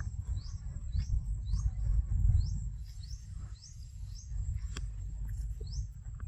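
A bird repeating a short rising chirp about twice a second, over a steady low rumble and a faint steady high-pitched whine.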